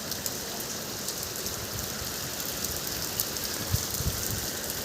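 Heavy rain falling steadily: a dense, even hiss with scattered drops ticking close by.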